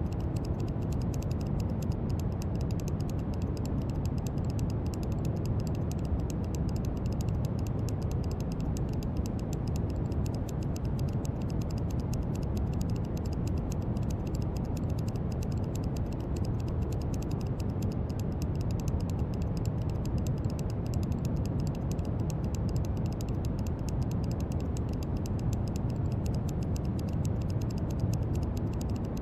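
Steady brown noise: a deep, even rushing hiss, heaviest in the low end and thinning toward the highs, unchanging throughout.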